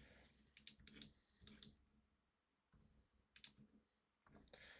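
Faint clicks of a computer mouse and keyboard, a few short clicks in small pairs spread unevenly over near-silent room tone.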